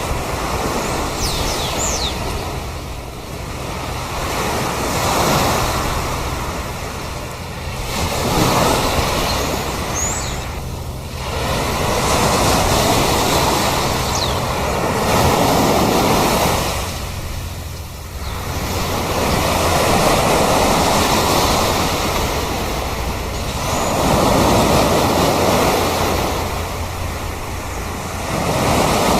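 Sea waves washing onto a shore, swelling and falling back every few seconds, with a few brief high bird calls over them.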